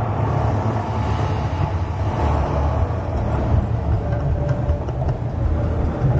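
Loud, steady, deep rumble from The Mirage volcano show's sound system, heaviest in the bass.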